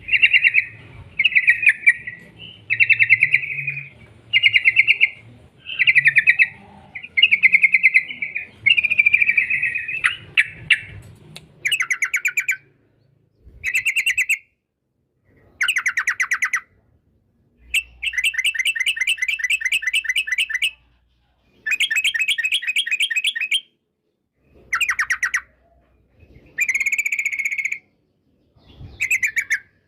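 Trucuk (yellow-vented bulbul) singing its rapid chattering 'ropel' song in repeated trilled phrases. About one phrase a second at first, then longer bursts of a second or more with short pauses between them.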